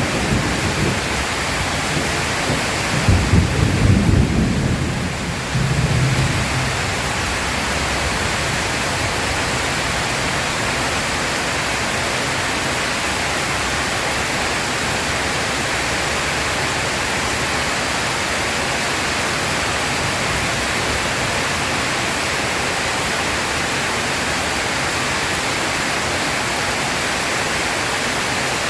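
Heavy rain falling steadily during a thunderstorm, with a low roll of thunder about three to five seconds in and a smaller rumble just after, then steady rain.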